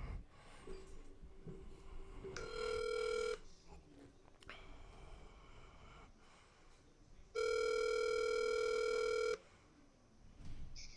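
Ringback tone of an outgoing phone call: a steady electronic tone sounds twice, first for about a second and then for about two seconds, with a pause of about four seconds between.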